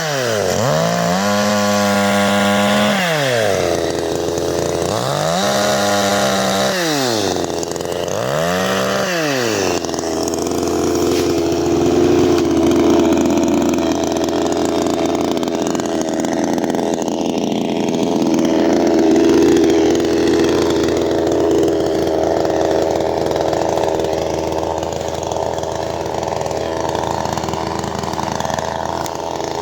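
54.6 cc CanFly two-stroke chainsaw revved up and back down four times, then running steadily at an even pitch for the last twenty seconds.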